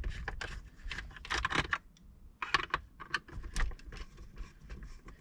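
Irregular clicking and clattering of hard plastic parts as a shower pump unit is unclipped and pulled out of its processor housing, in two busy spells with a lull between.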